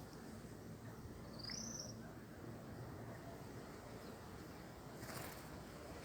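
Faint steady outdoor background noise with a single short, high bird chirp about a second and a half in, and a brief rustle near the end.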